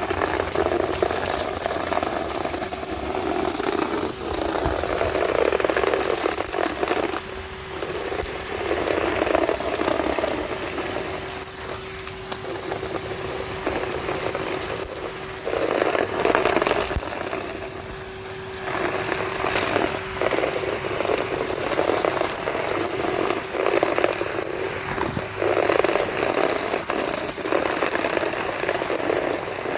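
Numatic Henry HVR 200-22 vacuum cleaner running, with a steady motor hum under the crackling rattle of grit and debris being sucked up the hose. The crackle swells and drops as the nozzle is worked over the ground.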